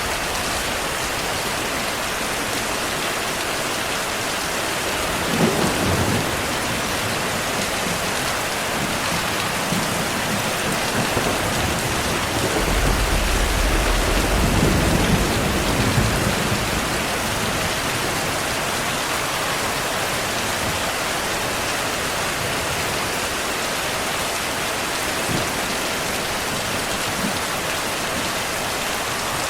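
Heavy, steady rainfall with thunder: a short clap about five seconds in, then a longer low rumble of thunder in the middle that swells and fades over about four seconds.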